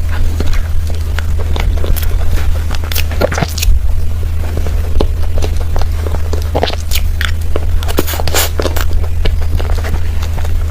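Close-miked mouth sounds of eating creamy cake: irregular smacking and chewing clicks, over a steady low hum.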